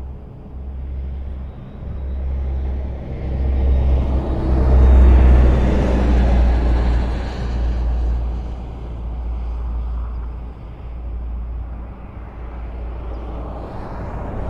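Highway traffic: a steady wash of tyre and engine noise, with one vehicle passing close about five seconds in, its rumble rising and then fading.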